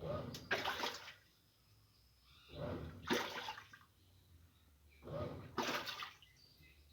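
Water sloshing in an Easy washing machine's tub in repeated swishes, each about a second long and coming roughly every two and a half seconds, with quiet gaps between.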